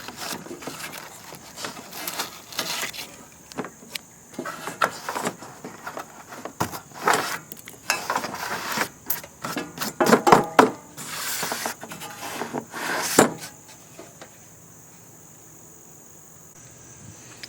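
A wood chisel scraping and picking old lap sealant from around a roof vent: a run of irregular scrapes and taps that quiets down for the last few seconds.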